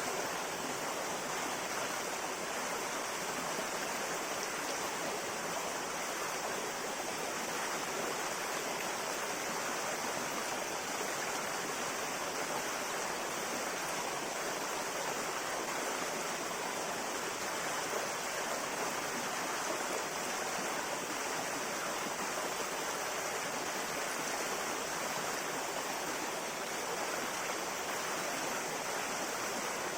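River water flowing steadily, an even rushing and burbling with no breaks.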